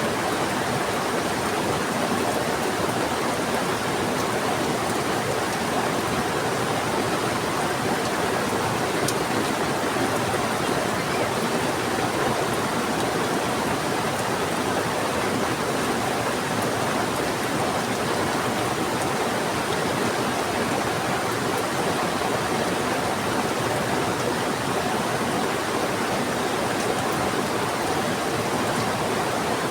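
Rain falling steadily over a fast-flowing river: an unbroken, even rush of water with no pauses or changes.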